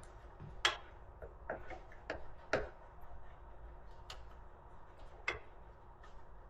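About half a dozen sharp, irregularly spaced clicks and light taps of hand tools and metal fasteners against the parts of a Razor MX650 electric dirt bike being taken apart.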